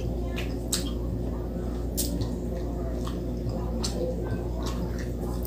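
Close-miked chewing of fried frog, with sharp wet mouth clicks and smacks every second or so over a steady low hum.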